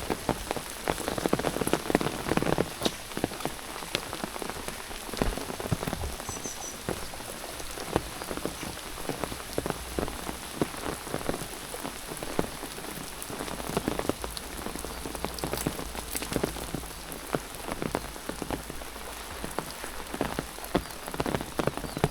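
Steady rain falling, with many sharp, irregular drop taps close to the microphone.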